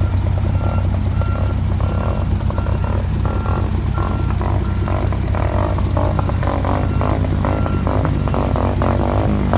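Diesel engine of a rubber-wheel (pneumatic-tyre) roller running steadily during final rolling of fresh asphalt, with a reversing alarm beeping over it in a steady repeating pattern.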